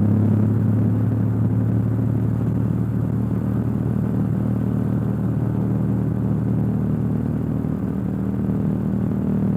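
Cessna 172's single piston engine and propeller at full throttle during the takeoff roll, a steady loud drone heard from inside the cockpit.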